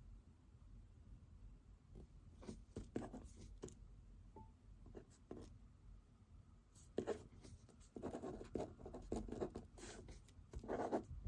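Pen writing on paper: short scratchy strokes in irregular runs, busiest in the second half, over a low steady room hum.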